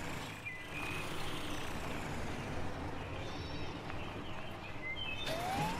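Cartoon sound effect of a heavy truck engine running steadily as the vehicle drives in, with a short rising tone near the end.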